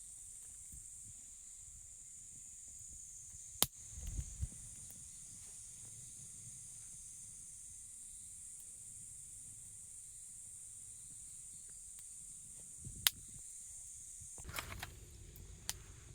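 Steady high-pitched insect chorus, broken by a few sharp knocks or clicks about four seconds in, about thirteen seconds in and near the end.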